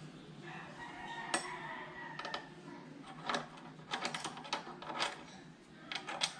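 Metal tools and small brake parts clinking and tapping during a motorcycle front brake pad change: a string of sharp metallic clicks, bunched together past the middle and again near the end, with a faint ring early on.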